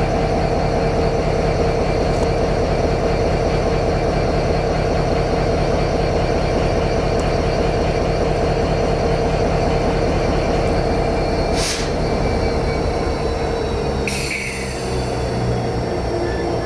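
MRS freight train rolling past, its wagons' wheels making a steady loud rumble on the rails with a fast rattle. About three-quarters of the way through the sound dips and changes to lower steady tones, with two short hisses around then.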